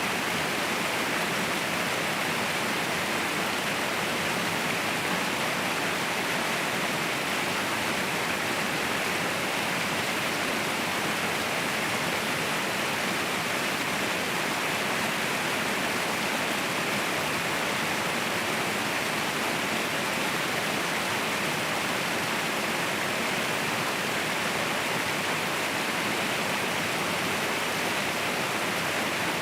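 Waterfall rushing: a steady, unbroken roar of falling water with no change throughout.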